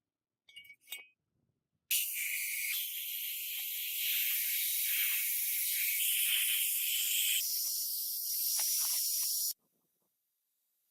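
A pressurised jet hissing steadily for about seven and a half seconds, starting and stopping abruptly, after two brief clicks.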